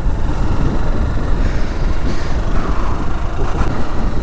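Motorcycle riding along the road: a steady rumble of engine and wind rush on the rider's microphone.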